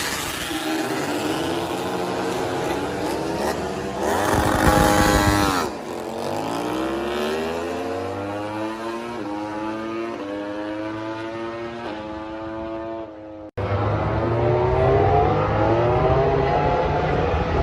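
MotoGP race motorcycles' 1000 cc four-cylinder engines at high revs. A bike is loudest about four to six seconds in. It then accelerates up through the gears: the pitch climbs, drops back at each shift and climbs again. After an abrupt cut about thirteen seconds in, another bike is heard accelerating with rising pitch.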